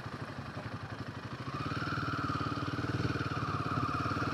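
Royal Enfield Himalayan 450's single-cylinder engine running at low revs with an even pulsing beat, growing a little louder about a second and a half in.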